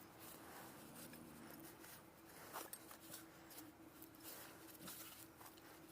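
Near silence, with a few faint soft clicks and rustles.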